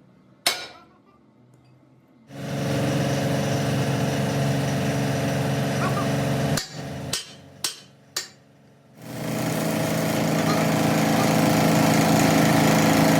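A motor-driven workshop machine runs with a steady hum, stops after a few seconds, gives four sharp knocks while stopped, then starts up again and keeps running.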